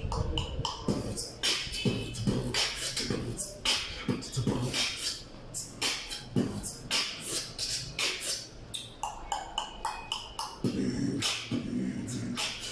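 Beatboxing: a person's mouth making a fast drum pattern of sharp snare and hi-hat clicks over low kick-drum thumps. About ten seconds in, a hummed bass tone joins underneath.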